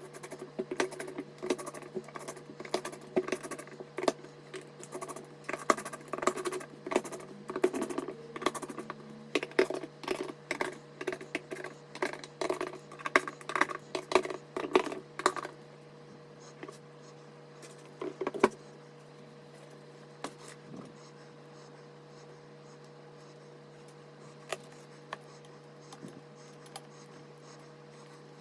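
Hands handling PC build parts: a dense run of small clicks, taps and rustles that stops about fifteen seconds in, followed by a few isolated clicks over a steady low hum.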